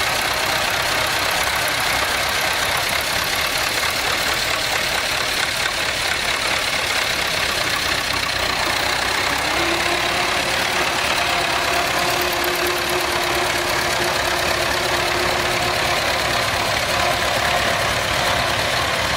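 Vintage tractor engine running steadily with a fast, even pulsing beat. A steady higher whine joins about halfway through.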